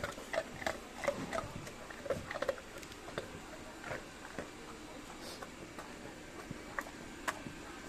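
A golden retriever eating: irregular wet clicks and smacks of its mouth at the food, thick in the first few seconds and then sparser.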